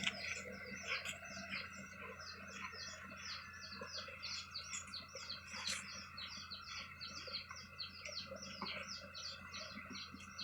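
Birds chirping in a quick, even run of short high calls, several a second, over a faint steady low hum.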